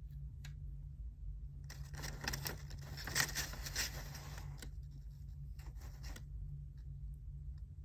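Scratching and rustling of paper on a study desk, lasting about four and a half seconds, over a steady low hum. A few light clicks come before it.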